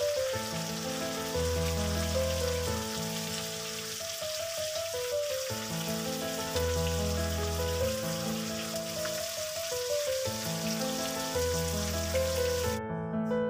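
Buffalo liver sizzling as it fries in a wok, a steady hiss, under background music of slow keyboard notes over a low bass. The sizzle cuts off near the end, leaving the music alone.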